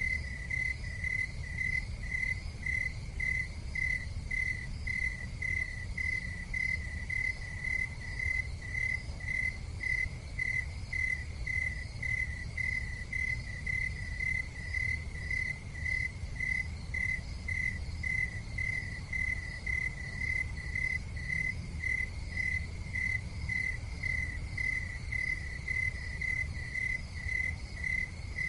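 Cricket chirping steadily in regular high-pitched pulses, about two to three a second, over a low, steady rumble.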